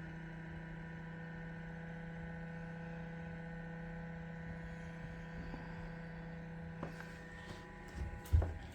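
Steady electrical hum of an Iceco 75-quart compressor fridge/freezer running off a portable power station's AC inverter, drawing about 60 watts. Near the end come a couple of light knocks.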